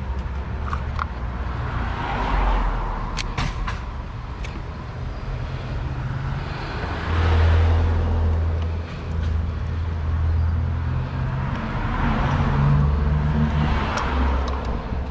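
Motor vehicle noise: a steady low engine hum with the whoosh of cars going by several times. A few sharp clicks come about three seconds in.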